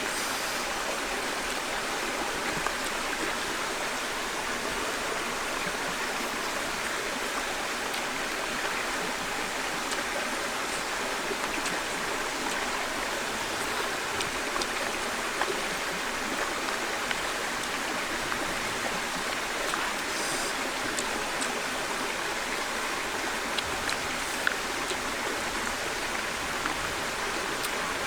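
Steady rushing of a flowing stream, unchanging, with a few faint clicks here and there.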